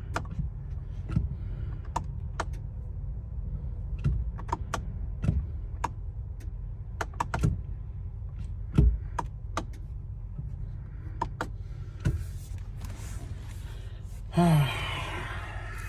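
Irregular sharp clicks and knocks, well over a dozen, over a steady low hum, with a short falling voice-like sound about fourteen seconds in.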